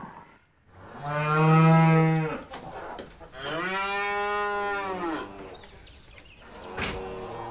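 Cow mooing twice: two long calls, the first louder, the second arching up and down in pitch.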